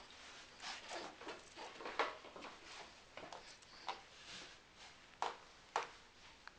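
A young baby sucking on his own hand: irregular wet smacking and sucking clicks, a few of them sharper and louder.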